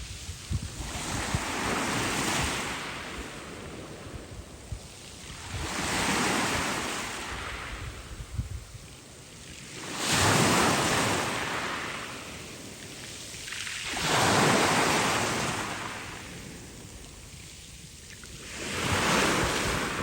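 Black Sea waves washing onto the shore, one about every four seconds, each swelling up and fading away.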